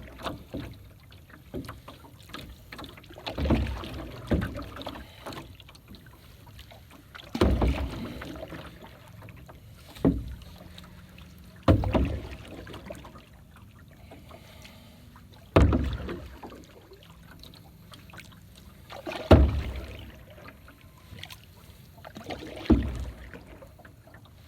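Canoe paddle strokes, one every three to four seconds, each a swish of water off the blade, several starting with a sharp knock of the paddle against the gunwale.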